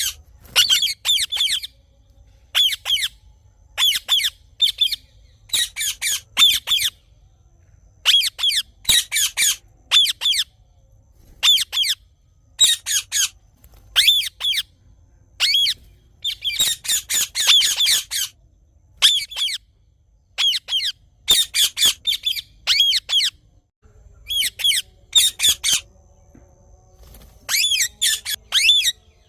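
Indian ringneck parakeet calling: short high-pitched calls in quick runs of two to five, repeated over and over with brief pauses between runs.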